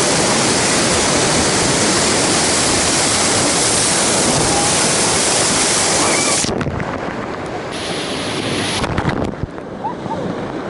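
Loud, steady rush of river water that cuts off suddenly about two-thirds of the way through, giving way to a quieter rush.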